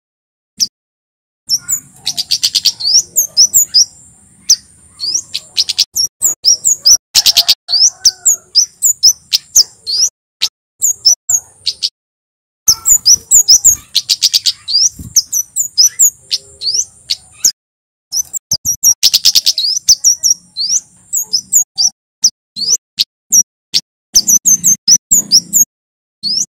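Male kemade (orange-headed thrush) singing loud runs of quick, sharp whistled notes in long bursts with brief pauses between them, with a thin high steady tone under parts of each burst.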